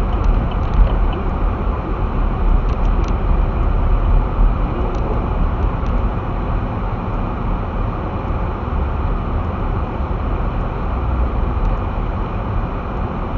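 Steady low rumble of a vehicle being driven through the snow, heard from inside the cab: engine and tyre noise, with a few faint ticks in the first few seconds.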